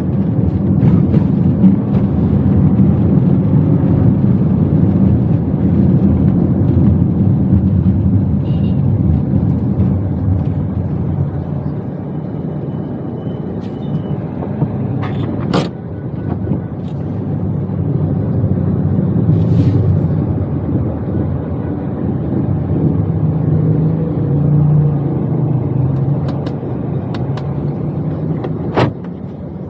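Toyota Wigo heard from inside the cabin while driving: steady engine and road rumble. A sharp click sounds about halfway through and another near the end.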